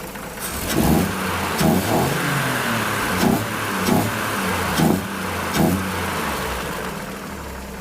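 1950 Chevrolet truck's Stovebolt inline-six revved in several quick throttle blips, each rising and falling in pitch, then settling back to idle near the end.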